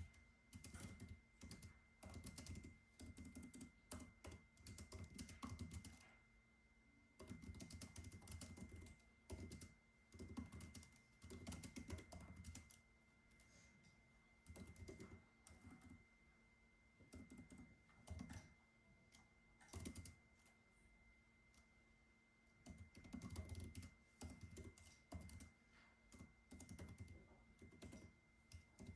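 Quiet typing on a computer keyboard: runs of keystrokes lasting a second or two, broken by short pauses, over a faint steady high-pitched hum.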